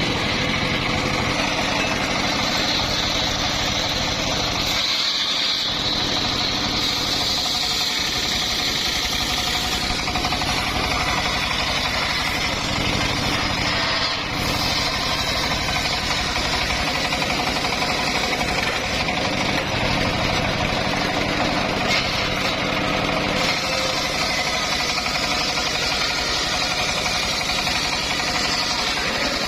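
Homemade engine-driven circular sawmill running steadily with its engine at a constant speed and the saw's noise over it.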